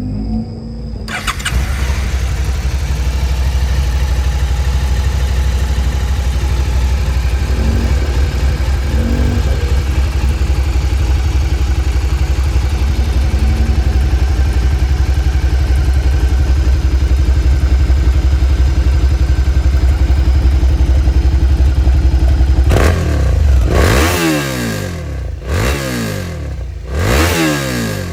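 Suzuki SV650's V-twin engine through its stock exhaust: it starts about a second in and idles steadily, then is revved up and let fall back three times near the end.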